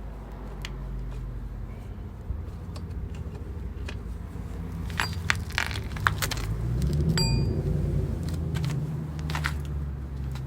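Metal tools and parts clinking and knocking during motorcycle wheel and bearing work, with one short ringing metallic ping about seven seconds in, over a steady low hum.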